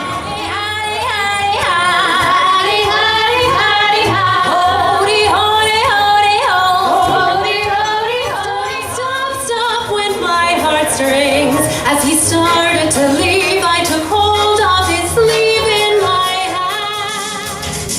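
Female vocal group singing in close harmony over a band accompaniment.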